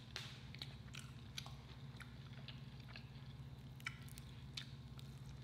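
Chewing a mouthful of Popeyes hot honey fried chicken: soft, scattered mouth clicks and small crunches at irregular intervals, over a faint steady low hum.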